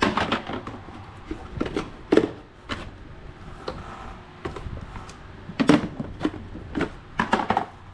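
Irregular clicks and knocks, as of hard parts or tools being handled, with the loudest knocks about two seconds in, just before six seconds, and again near the end.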